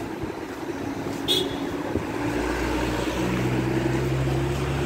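A motor vehicle's engine running at a steady low hum that comes in about two seconds in and holds, over general street noise.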